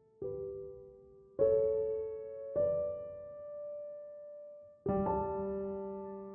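Slow, gentle solo piano music: single notes and chords struck every second or so, each ringing out and fading.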